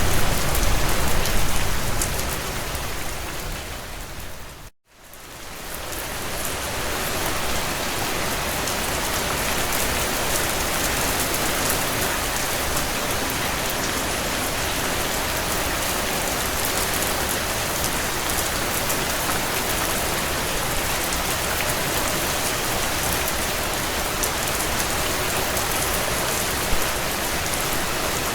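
Heavy rain falling on a tin roof: a dense, steady hiss of drops with fine ticks of single drops through it. About four seconds in, the rain fades out to a moment of silence, then swells back in over a couple of seconds.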